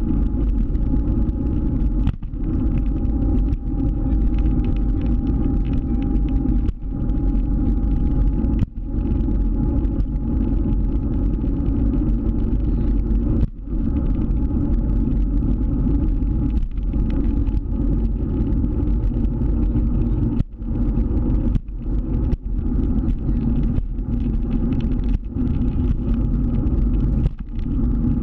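Scooter riding along, a steady low rumble of motor, road and wind noise on the microphone, dipping briefly every second or two, with a faint steady whine from about two to eight seconds in.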